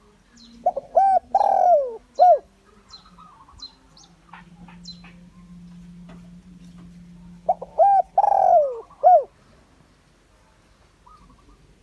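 Spotted dove cooing: two phrases about six and a half seconds apart, each a couple of short notes, a long falling coo and a short closing note.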